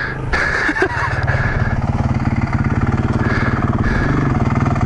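Yamaha TTR230's single-cylinder four-stroke engine running steadily at low revs, its firing pulses even.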